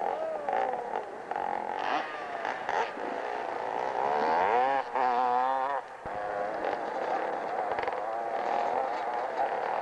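Motorcycle engine revving hard on a steep hill climb, its pitch rising and falling in surges and wavering rapidly for a couple of seconds near the middle as the bike works up the slope.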